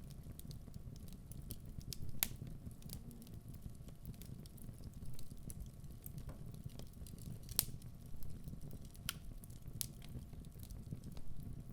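Wood fire burning in a fireplace: a steady low rumble of the flames with scattered sharp crackles and pops from the burning logs, the loudest about two seconds in and again past halfway.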